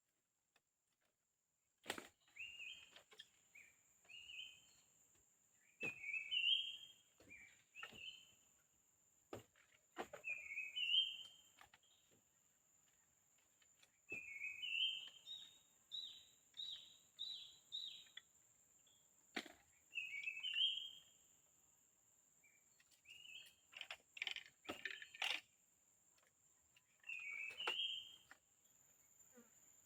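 A forest bird calling over and over in short chirping phrases of quick notes, some phrases stepping up in pitch. A faint steady high-pitched tone runs underneath, and sharp clicks or knocks are scattered through it.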